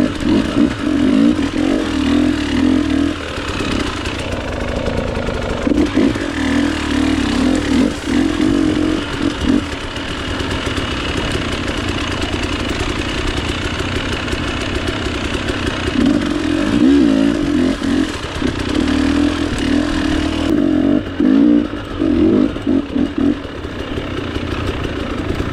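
Two-stroke dirt bike engine running at idle, with throttle blips that push the revs up and let them fall several times in the second half.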